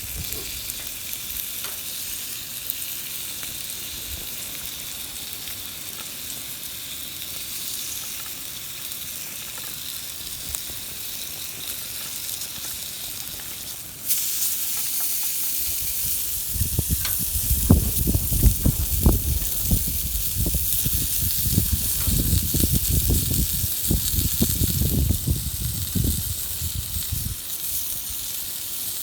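Food sizzling and frying over a campfire, a steady hiss that grows louder suddenly about halfway through. A run of low rumbling thumps comes in shortly after and dies away near the end.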